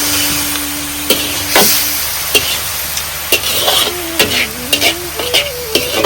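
Food sizzling in a pan, a steady hiss, while it is stirred with a utensil that clicks and scrapes against the pan many times.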